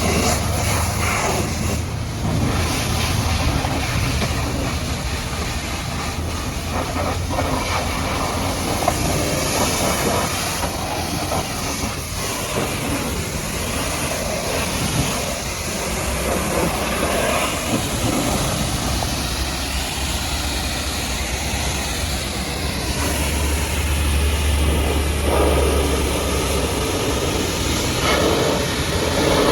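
High-pressure water jet spraying against a mud-caked truck, a steady loud hiss with a low pump hum underneath.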